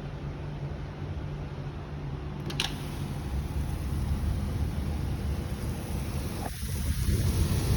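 Thunderstorm wind and rain noise: a low rumble with a hiss that grows louder after a sharp click about two and a half seconds in.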